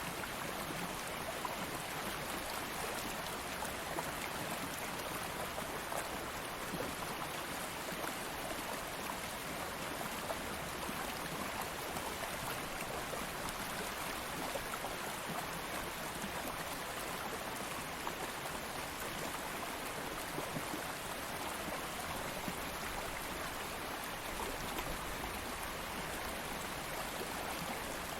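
Stream water flowing steadily over rocks, an even rushing and babbling with no distinct events.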